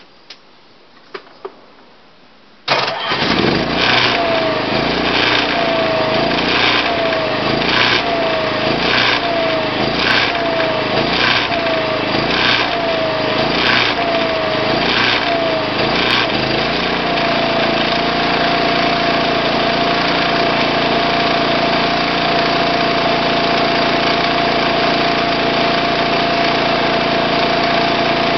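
Onan MicroLite 2800 RV generator starting after a few faint clicks, then running with a regular pulsing surge a little slower than once a second, each pulse with a falling tone, for about thirteen seconds before settling into a steady even hum.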